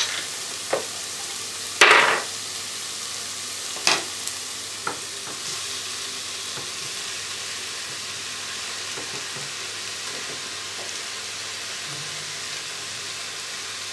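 Mushrooms frying in a multicooker bowl on its fry setting, a steady sizzle. In the first five seconds there are a few knocks and scrapes, the loudest about two seconds in, as diced boiled chicken is scraped off a wooden cutting board into the bowl.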